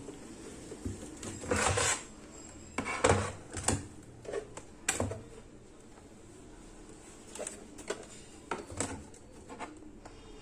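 Handling noises from a speaker cabinet being opened up for repair: a scrape, a few sharp knocks, then scattered lighter clicks and taps.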